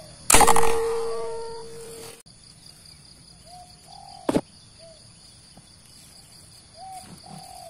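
Spotted dove cooing in short repeated phrases over a steady high drone of insects. A loud sudden sound near the start holds a ringing tone and then cuts off abruptly, and a short sharp crack comes about four seconds in.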